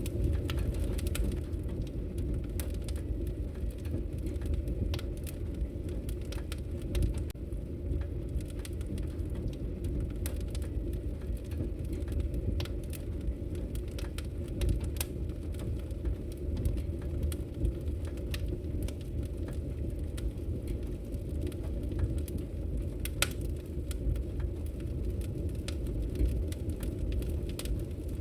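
Wood logs burning in a fireplace, crackling with scattered sharp pops over a steady low rumble.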